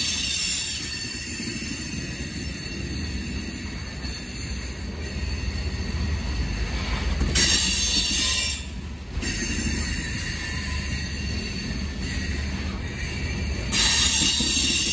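Loaded coal train's cars rolling past, a steady low rumble of steel wheels on rail. High wheel squeal flares up briefly near the start, again about seven seconds in, and near the end.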